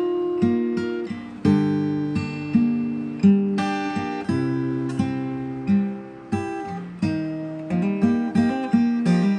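Acoustic guitar music: plucked and strummed chords ringing out in a steady, unhurried rhythm.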